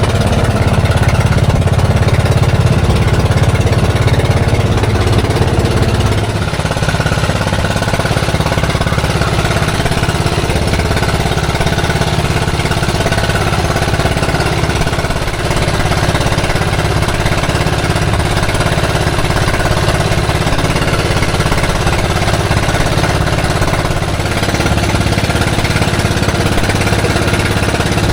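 Fishing boat's engine running steadily with a rattly, chugging note; about six seconds in it settles to a slightly lower, quieter run.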